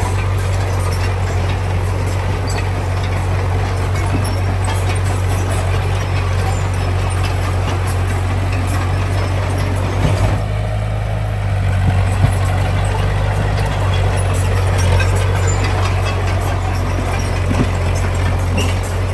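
Heavy diesel engine of earthmoving machinery running steadily with a deep hum, with scattered faint clanks. About halfway through the engine note briefly changes, with a knock.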